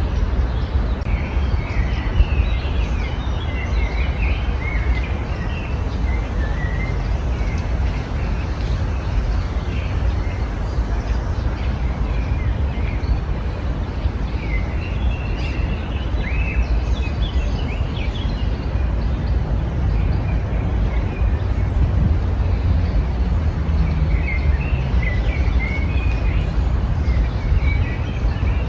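Small songbirds chirping and twittering in scattered bursts, over a steady low rumble and background noise.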